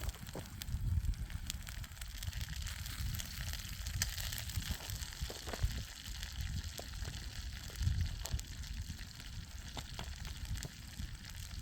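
Chicken frying in olive oil in a pan over a campfire: a steady sizzle with small sharp pops and crackles. Gusts of wind rumble on the microphone about a second in, near the middle and again about two-thirds through.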